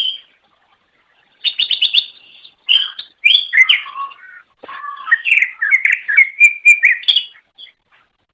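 Cucak ijo (green leafbird) singing: a short burst of notes, a pause of about a second, then a fast run of repeated notes that goes into a long, varied phrase of whistled notes sweeping up and down.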